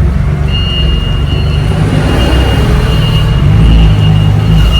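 Semi truck's engine running with a steady low rumble, with a thin high whine that starts about half a second in.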